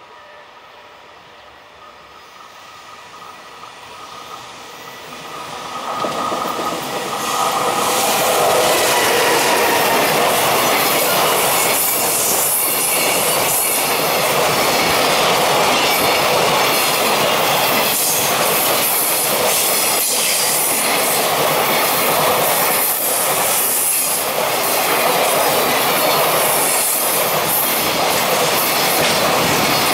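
A JR Freight EF210 electric locomotive and its container freight train approach, growing louder over the first several seconds. Then the long string of container wagons passes close by with a steady rumble and clatter of wheels on the rails.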